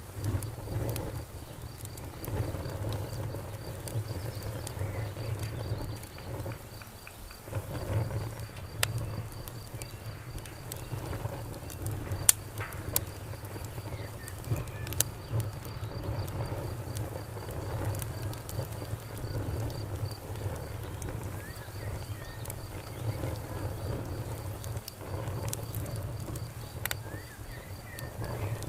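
Fire crackling, with scattered sharp pops over a low steady rumble, while a cricket chirps in a fast, even pulse.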